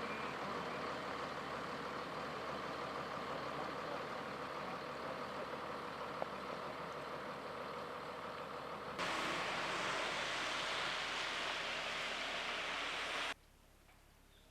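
Stocking truck's engine running steadily under an even rushing noise. About nine seconds in, the sound cuts to a louder, hissier rushing. Near the end it drops suddenly to near silence.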